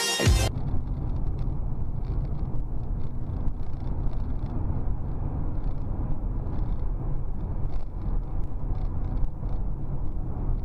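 Car driving: steady low engine and road rumble picked up by a dash camera. A burst of music cuts off about half a second in.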